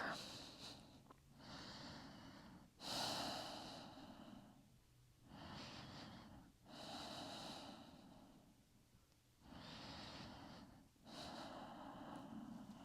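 Faint, slow breathing held in a seated yoga forward fold: breaths in and out alternating, each lasting one to two seconds with short pauses between.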